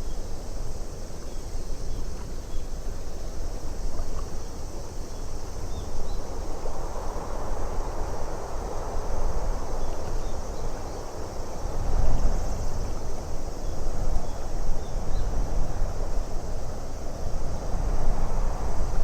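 Wind blowing in gusts across an icy lake: a steady rush with a deep rumble that swells and eases, loudest about twelve seconds in, with a few faint short high chirps.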